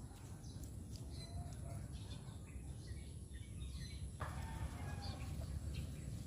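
Faint, scattered short bird chirps over a steady low background rumble.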